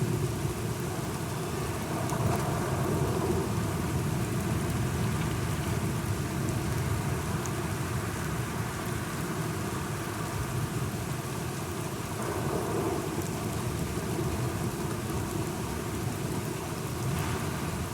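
Steady rain with thunder rumbling low underneath, swelling a couple of times.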